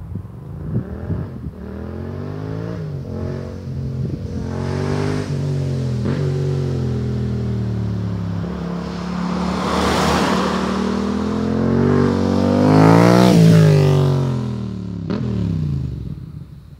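Yamaha MT-07 parallel-twin engine revving through an aftermarket MIVV GP carbon exhaust. Its pitch rises and drops several times in quick succession, then climbs for a longer stretch to its loudest about 13 seconds in, falls away, and fades near the end.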